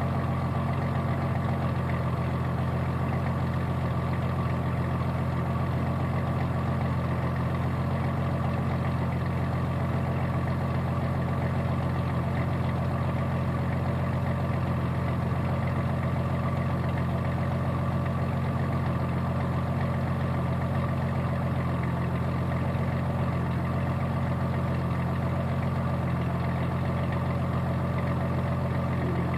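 1992 Jeep Cherokee's 4.0-litre straight-six idling steadily through a 2.5-inch exhaust with a Thrush Turbo muffler.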